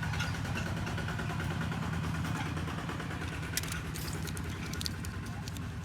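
A steady low hum like an idling engine running under everything, with a few light clicks about three and a half to five seconds in.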